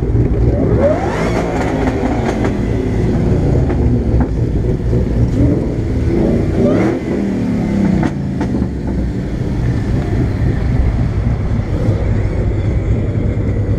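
Car engines running with a steady low exhaust rumble; an engine revs up about a second in, and engine pitch rises and falls again around six to seven seconds in.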